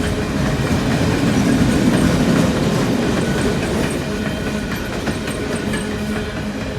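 Empty coal train rolling past, a steady rumble with wheel clickety-clack over the rail joints, swelling slightly about two seconds in.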